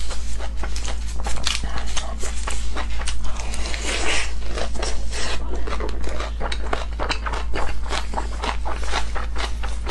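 Close-miked eating: wet chewing, smacking and crackling as a lettuce-wrapped piece of braised pork belly is bitten into about four seconds in and then chewed, over a steady low hum.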